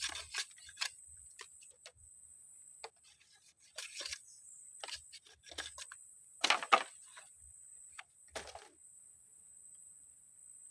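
Irregular short clicks, taps and rustles of things being handled, the loudest cluster about six and a half seconds in, over a faint steady hiss.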